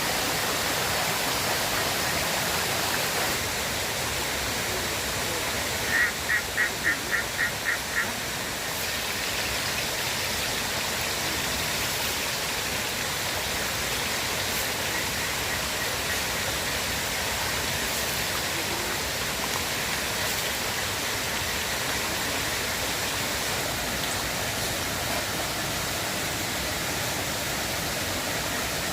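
River water flowing steadily. About six seconds in, a bird gives a rapid call of about eight short high notes lasting some two seconds.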